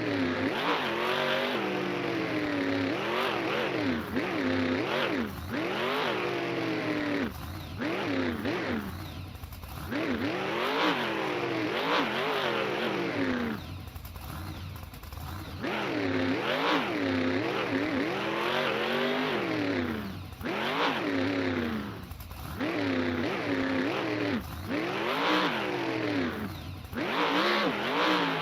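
Monster truck engine revving hard again and again, its pitch climbing and falling with each burst of throttle, with a few brief lulls between runs.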